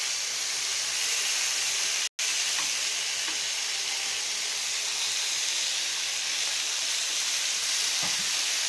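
Tandoori-marinated chicken pieces sizzling in oil on a hot ridged grill pan: a steady frying hiss, with a few light clicks of metal tongs moving the pieces. The sound cuts out for an instant about two seconds in.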